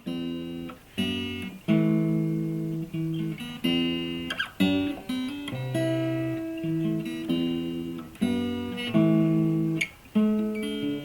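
Acoustic guitar played fingerstyle: plucked chords with a melody on top, a new chord struck about every second.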